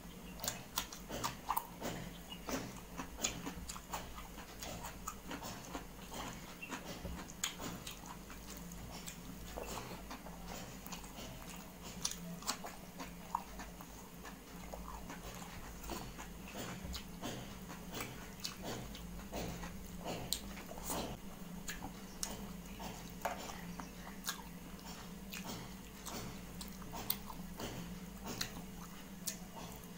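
Close-up eating sounds of a person chewing and biting food: irregular wet mouth clicks and smacks throughout, over a steady low hum.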